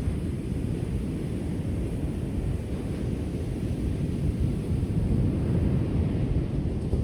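Ocean waves breaking on the shore: a steady low rumble of surf with a fainter hiss, swelling a little about five seconds in.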